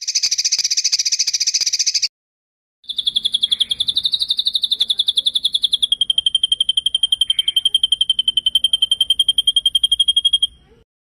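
Songbird song from a training recording: a buzzy, fast rattle for about two seconds, then after a short break a long rolling trill of rapid, even notes held at one high pitch for about seven seconds.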